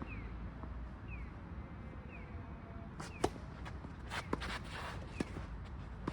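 Tennis ball being struck and bouncing on a court: a few sharp single knocks, the loudest about three seconds in, with a stretch of shoe scuffing around four seconds in. A faint high chirp falling in pitch repeats about once a second over a steady low rumble.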